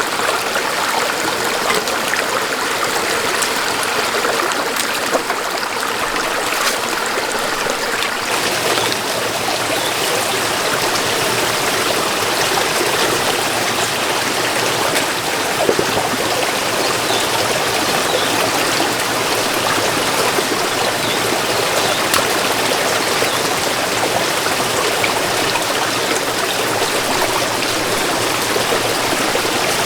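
Water running steadily, a continuous rushing and trickling, growing a little fuller and deeper about eight seconds in.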